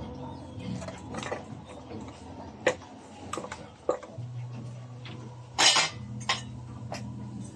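Metal parts and hand tools clinking and knocking as they are handled during brake booster disassembly. There are about half a dozen separate clinks, with one louder, longer rattle a little past halfway, over a steady low hum.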